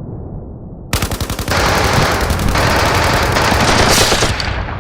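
Sound-effect machine-gun fire in a battle scene: after a low muffled rumble, rapid bursts of automatic gunfire start about a second in and grow denser and louder about half a second later.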